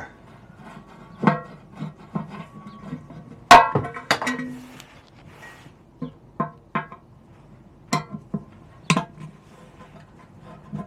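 Scattered metallic clinks and knocks of a screwdriver and small parts being worked off an old motorcycle petrol tank, the loudest about three and a half seconds in, over faint background guitar music.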